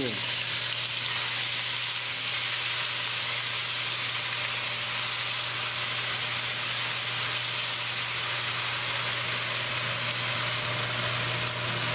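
Onion paste and cumin seeds frying in hot olive oil: a steady, even sizzle.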